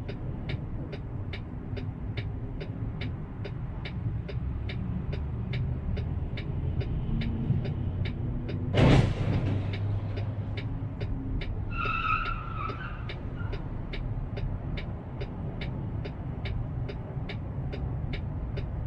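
Car driving, as heard from a dashcam inside the car: a steady low road and engine rumble with fast, even ticking, about three ticks a second. About nine seconds in there is a short loud burst of noise, and around twelve seconds a brief squeal.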